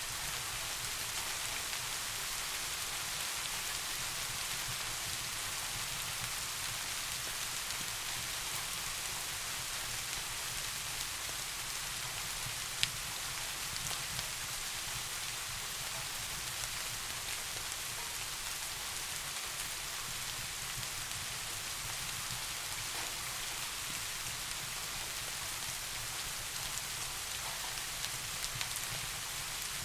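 Steady rain falling, an even hiss with a few single drop-like clicks, one sharper than the rest about halfway through.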